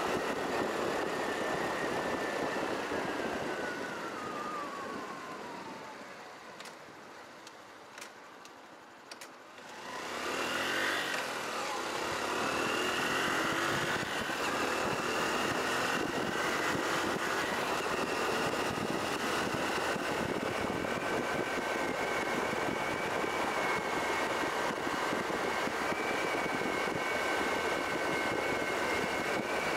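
Honda Cross Cub 110's small air-cooled single-cylinder engine under way, with wind noise. The engine slows with a falling whine and goes quiet for a few seconds, broken by a few light clicks. About ten seconds in it pulls away with a rising whine and then settles into a steady cruise.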